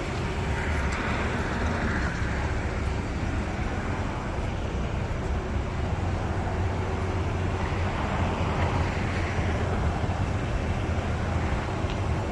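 Steady low rumble of a moving vehicle heard from inside its cabin, with even road and engine noise throughout.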